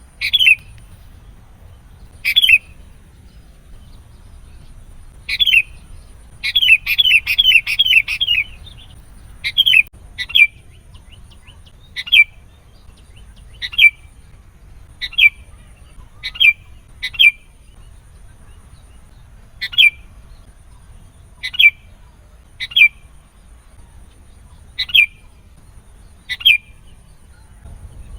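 Sooty-headed bulbul calling: short, sharp notes that drop in pitch, repeated about every second or two, with a quick run of about five notes some six seconds in.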